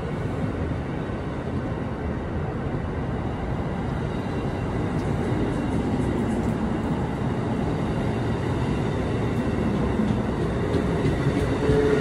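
A train running past at the station, a steady rumble that grows gradually louder.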